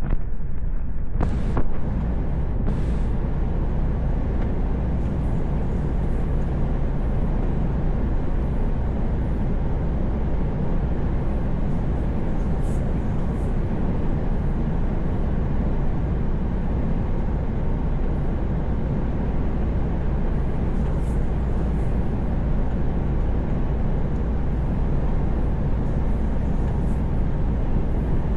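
Truck's engine and road noise at steady highway cruising, a constant low rumble. Two short clicks sound in the first few seconds.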